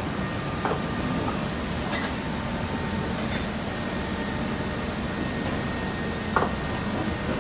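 Multi-blow bolt, pin and rivet heading machine running with a steady hum, with a few irregular ringing metallic clinks, the loudest near the end.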